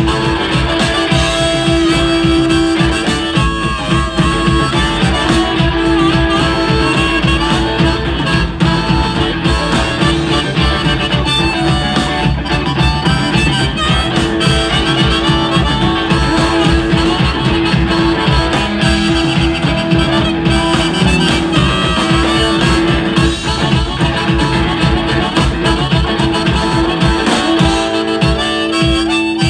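Blues band playing an instrumental break: a harmonica solo with long held notes over guitar, bass and a steady drum beat.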